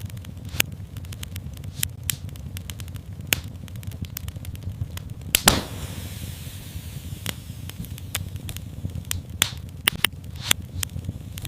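Wood fire in a fireplace crackling, with scattered sharp pops over a low steady rumble. The loudest pop comes about halfway through, and a few more strong ones come near the end.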